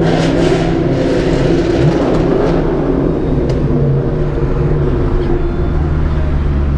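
Loud car engine and exhaust, coming in suddenly and running at raised revs, with a brief rise in pitch about two seconds in.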